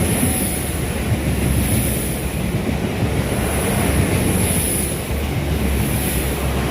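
Six-car Class 4000 diesel multiple unit passing through the station: a loud, steady rumble of engines and wheels on rail, with a high hiss that swells and fades several times.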